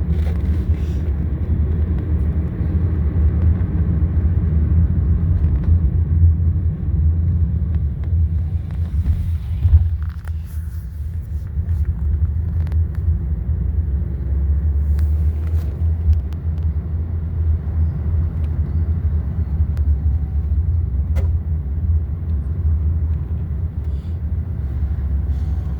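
A car on the move, heard from inside: a steady low road and engine rumble, with a single knock about ten seconds in.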